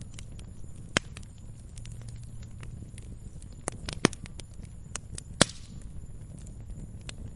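Wood fire crackling and popping in a fireplace over a low steady rumble, with sharp pops about a second in, around four seconds in and a loud one about five and a half seconds in.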